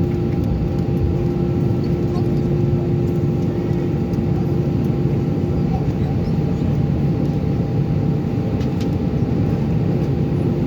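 Steady cabin noise inside an Airbus A319 taxiing in after landing: a constant low rumble with a steady hum-like tone, and a few faint clicks.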